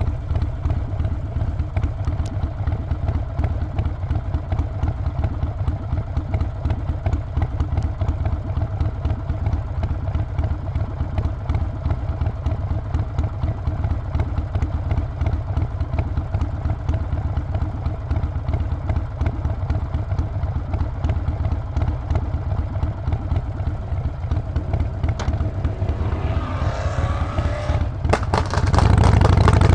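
Harley-Davidson Sportster 48's air-cooled V-twin engine and exhaust running with a steady, pulsing low rumble. Near the end a louder rush of noise rises over it.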